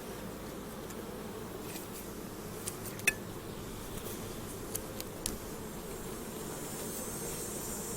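Steady hum of a mass of honeybees swarming over an opened hive box, with a few sharp clicks and knocks, the loudest about three seconds in.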